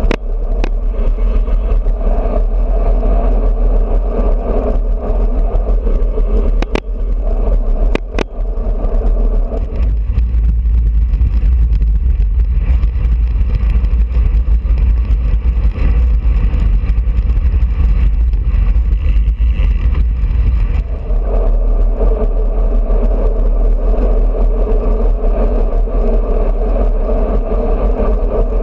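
Wind buffeting and tyre noise on a GoPro action camera riding on a road bicycle, a loud steady rush with a deep rumble. A few sharp clicks come in the first eight seconds, and for about ten seconds in the middle the sound turns to a lower rumble.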